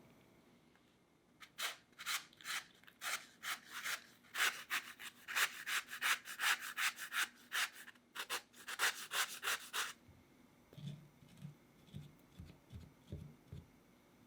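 Quick, rhythmic scraping strokes of a hand-held kitchen utensil, about three to four a second, lasting around eight seconds, followed by a few soft low thumps.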